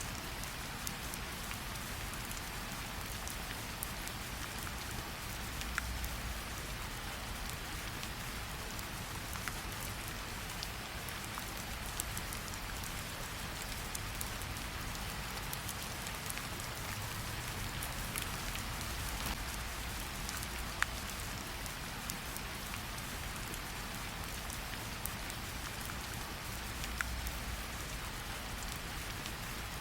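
Steady rain ambience, with a few sharp pops from a crackling fireplace scattered through it and a soft low rumble underneath.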